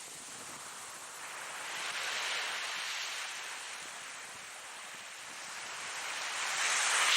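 Ocean waves breaking and washing up, a steady hiss of surf that swells as a wave comes in about two seconds in and again, louder, near the end.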